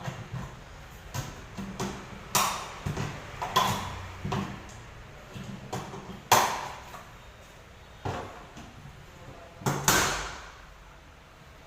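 Irregular knocks and clanks of metal machine parts being handled and fitted together, some ringing briefly; the loudest strikes come about six and ten seconds in.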